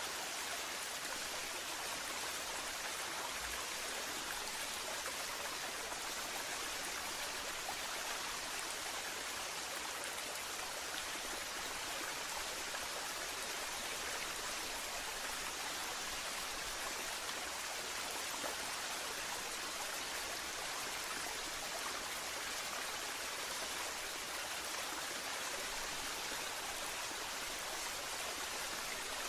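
Waterfall: falling water splashing in a steady, unchanging rush.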